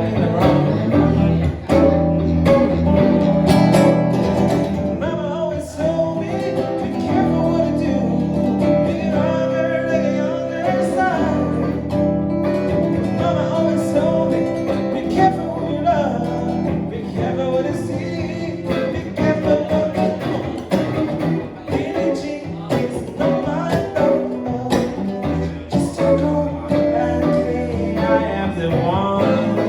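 Acoustic and electric guitars playing together in an improvised jam, continuous plucked and strummed notes.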